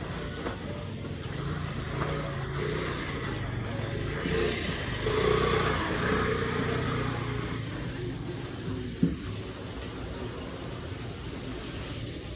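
A motor vehicle running and passing, growing louder in the middle and fading again, with a single short knock about nine seconds in.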